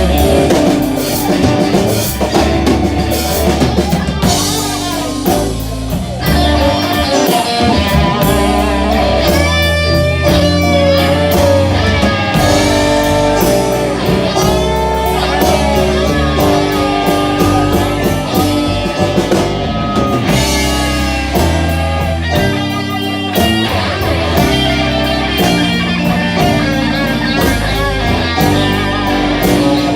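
Live blues band playing a slow blues: a guitar with bending, wavering notes over bass and drum kit, with no singing.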